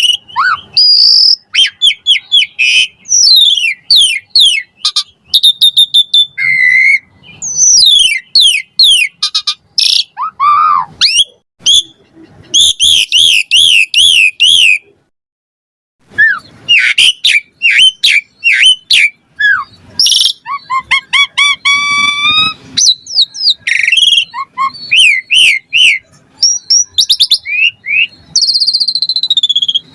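Asian pied starling singing a loud, varied song of whistles, rising and falling glides and fast repeated phrases, with a short pause about halfway through.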